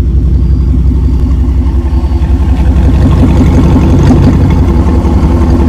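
A car engine idling close by with a deep, steady exhaust rumble.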